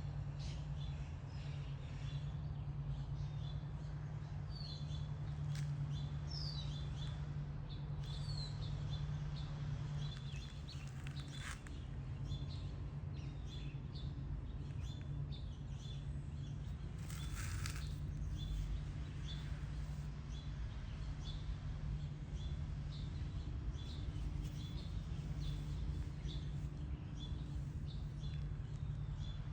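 Small wild birds chirping on and off, short high notes and a few quick rising whistles, over a steady low hum. A brief rushing noise a little past halfway.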